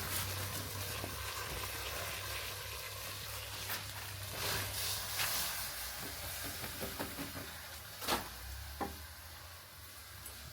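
Food sizzling steadily in a cooking pot, with a couple of short knocks about eight seconds in.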